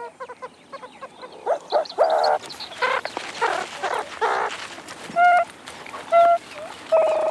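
Meerkats calling: a string of short squeaks and peeps, harsher in the middle, then three clear pitched calls, the last one longer.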